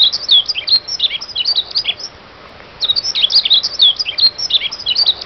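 Songbirds chirping: two runs of quick, high chirps, each about two seconds long with a short pause between them, over a faint steady hiss.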